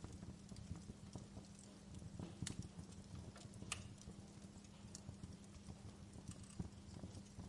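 Wood fire crackling in a fireplace: irregular sharp pops and snaps of burning wood, a couple of louder pops a few seconds in, over a low steady rumble.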